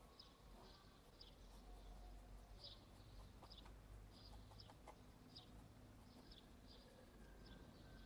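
Faint, repeated short high bird chirps, about one or two a second, over a low steady hum.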